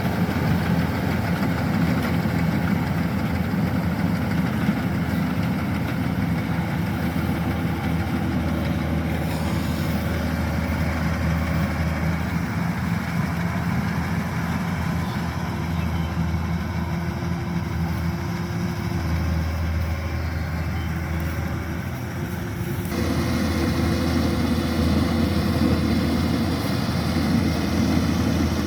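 Kubota DC-105X combine harvester working a rice field, its diesel engine and threshing machinery running with a steady drone. About 23 seconds in, the sound changes abruptly, becoming slightly louder and brighter.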